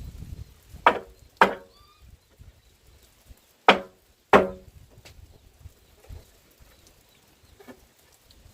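Tool blows on wood, chopping or hammering: four sharp strikes in two pairs about half a second apart, each ringing briefly. A fainter knock comes near the end.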